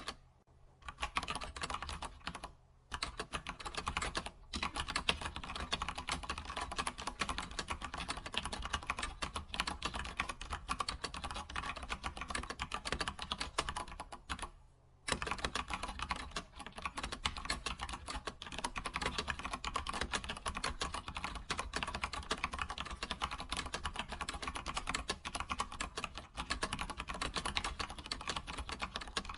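Computer keyboard typing: rapid, continuous keystrokes, broken by a few brief pauses, one of them about halfway through.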